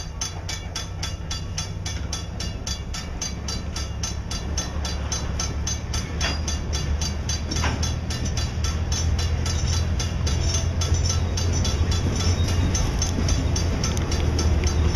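Work train rolling past, freight cars' wheels running on the rails, with an EMD SW1500 switcher's 12-cylinder diesel engine droning at the rear as it shoves. The drone grows steadily louder as the locomotive approaches.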